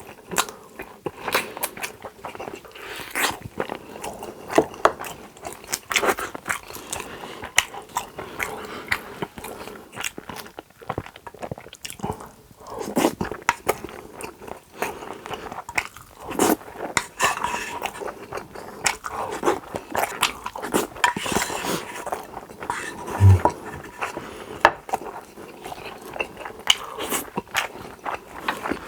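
Close-miked eating sounds: a person biting and chewing food, with many short irregular clicks and smacks. A brief low thump about 23 seconds in.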